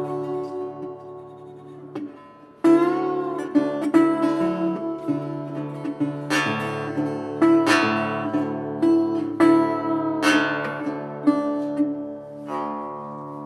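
Acoustic guitar music: chords strummed every few seconds and left ringing, with one note bent in pitch about three seconds in.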